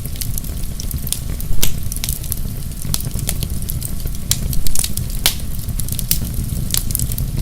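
Fire in a fireplace crackling: frequent irregular sharp pops and snaps over a steady low rumble of the flames, with a louder pop about one and a half seconds in and another near five seconds.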